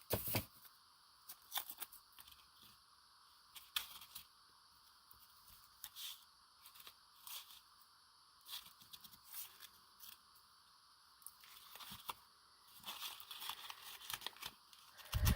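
Masking tape being pulled and torn off the roll and paper handled, in short crackly tearing sounds with pauses between, and a dull thump near the end.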